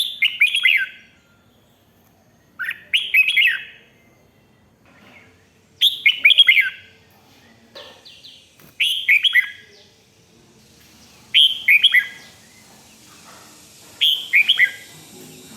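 Red-whiskered bulbul singing: six short phrases of quick, descending whistled notes, one every two to three seconds.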